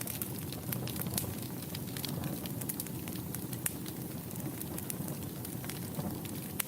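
Wood fire burning in a fireplace: a steady low rumble of flames with frequent irregular crackles and pops, a couple of sharper pops standing out.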